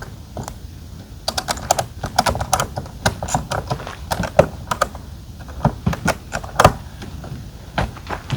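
Quick, irregular run of sharp clicks and light taps, in clusters, as hard plastic or metal parts are handled.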